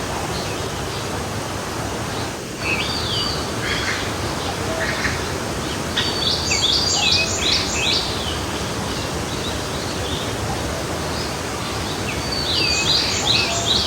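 Forest stream flowing steadily, with a songbird singing short phrases of quick, high, falling notes over it: once a few seconds in, again around the middle, and again near the end.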